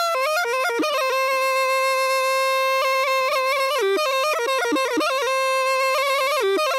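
Zurna, the Turkish double-reed shawm, playing an ornamented folk melody. It holds one long high note from about a second in to nearly four seconds, and another later on.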